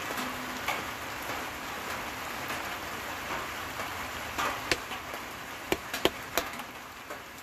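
Steady rain falling, with a handful of sharp ticks in the second half.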